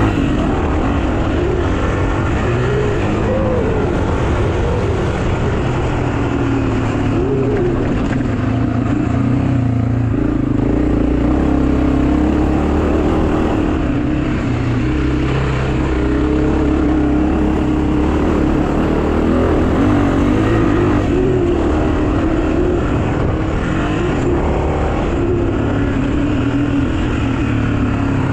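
Pit bike engine running steadily under way, its note rising and falling slightly with the throttle.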